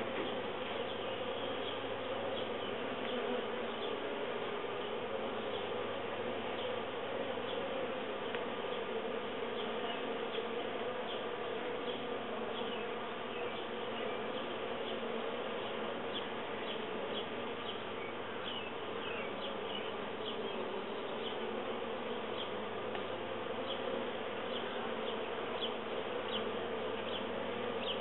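Steady buzzing of a mass of honeybees swarming around an open hive box.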